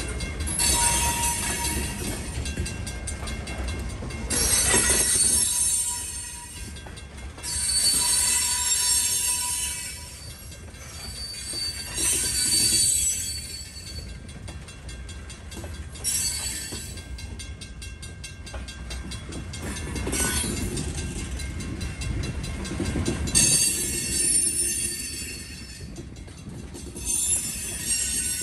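Freight cars rolling past at a crossing: a steady rumble of wheels on rail, with the wheels squealing in high-pitched bursts that come back about every four seconds.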